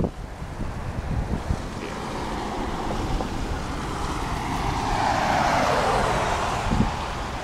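A road vehicle passing close by. Its tyre and engine noise swells to a peak about five to six seconds in and drops in pitch as it goes by. Low wind buffeting rumbles on the microphone throughout.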